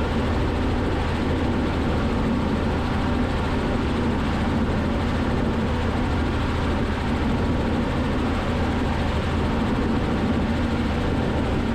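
Robinson R44 helicopter's engine and rotor noise in cruise flight, a steady even drone with a low hum, heard from inside the cockpit through the intercom feed.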